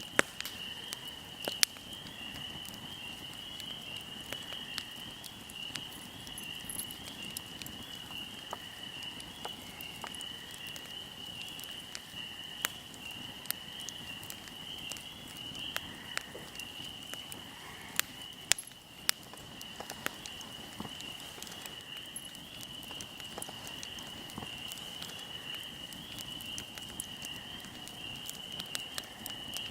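Fire crackling, with sharp pops at irregular moments, a cluster of louder ones about two-thirds of the way in. Behind it, a steady high-pitched trill of insects like crickets runs on.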